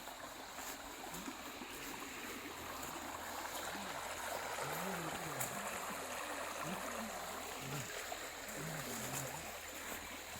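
Running stream water, a steady rushing hiss that grows a little louder in the middle, with faint low voices underneath.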